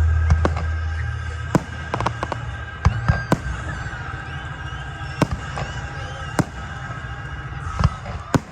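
Fireworks exploding: a deep boom at the start that dies away over about a second, then scattered sharp cracks and pops. Music plays underneath.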